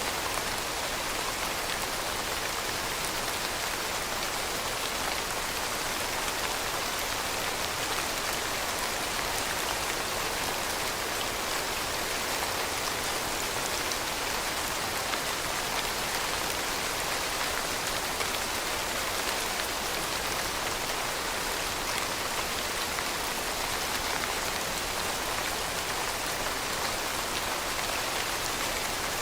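Steady rain falling and pattering on a surface, a dense even hiss of drops with no let-up.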